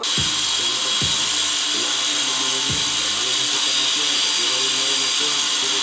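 A power tool running steadily with a high whine, over background music with a deep bass beat.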